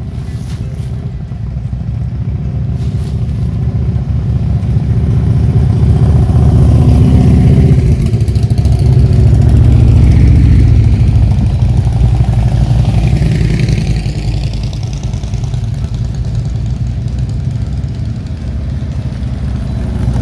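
A motor vehicle's engine running close by, a loud low rumble that swells to its loudest midway and then eases off.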